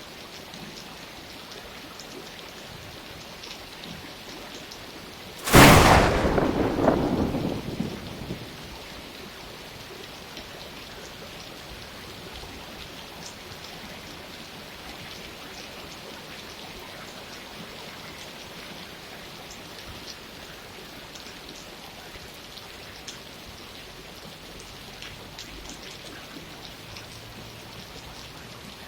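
Steady rainfall, with one sudden sharp thunderclap about five seconds in that rumbles away over a couple of seconds before the rain goes on alone.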